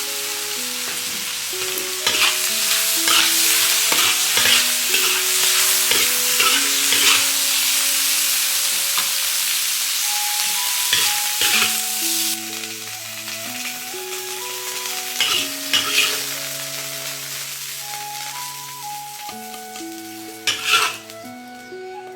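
Bamboo shoots and cured pork stir-frying in a hot pan: a steady sizzle with repeated spatula strokes scraping the pan, the sizzle easing after about halfway. A gentle melody plays over it.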